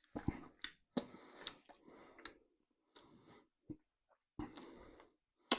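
A person tasting stout: quiet sips and swallows with small mouth clicks and lip smacks, coming in short bursts with pauses between.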